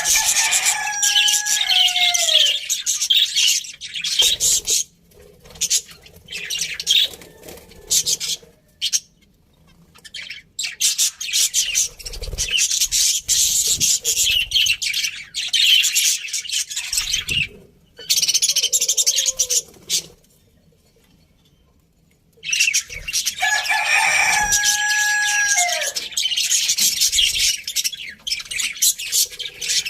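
Budgerigars chirping and chattering in busy bursts, broken by short pauses. Near the start and again about two-thirds of the way through, a lower call slides down in pitch.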